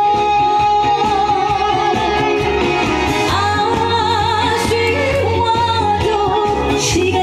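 A woman singing a trot song live, with vibrato on long notes, over loud backing music with a steady beat.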